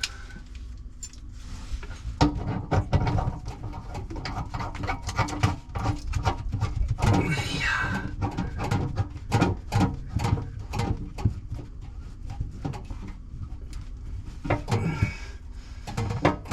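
Irregular clicks, knocks and clatter of parts and tools being handled during hands-on plumbing work on a water heater, with a low background rumble.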